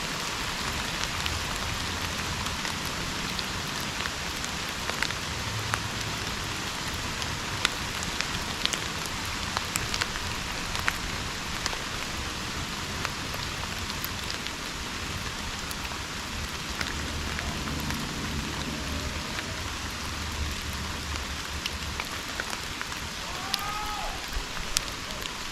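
Steady rain falling in subtropical rainforest: an even hiss with many sharp individual drops ticking through it.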